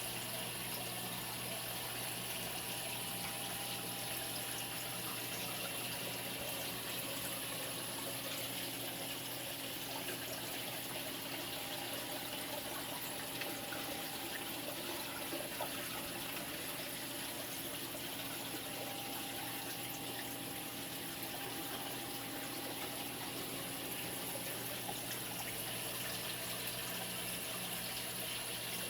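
Steady running and splashing water of a saltwater aquarium's circulation, with a low, even hum underneath.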